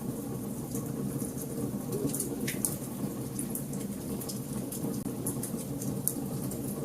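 Wood fire burning in a fireplace: a steady low rumble of the flames with frequent small, sharp crackles and pops, one slightly louder pop about two and a half seconds in.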